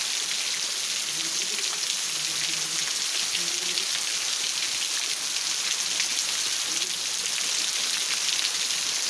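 Steady rain falling on tree leaves and a roof: an even, dense hiss of rain with many small drop hits, its level unchanging.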